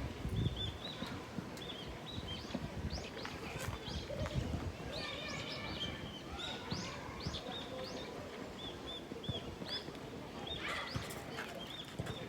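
Small birds chirping, with short high notes repeated in quick runs, over a low outdoor rumble.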